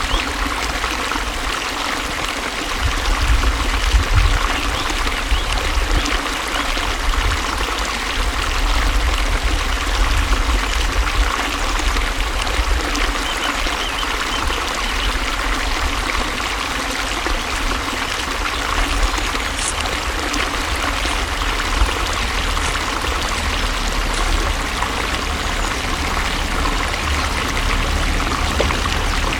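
Water flowing steadily: an even, unbroken rush with a deep low rumble underneath.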